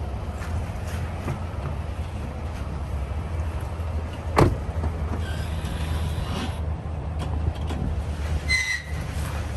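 A vehicle engine idling steadily, with a single sharp metallic knock about four and a half seconds in and a brief squeak near the end.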